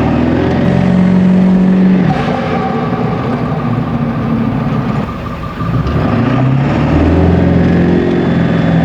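Ford 7.3L Powerstroke turbo-diesel V8 pulling under way through a straight-piped axle-dump exhaust, heard inside the cab with the windows up. The engine note climbs and drops a few times as the truck accelerates, easing off briefly about five seconds in; inside the cab the axle dump gives the deeper, louder drone.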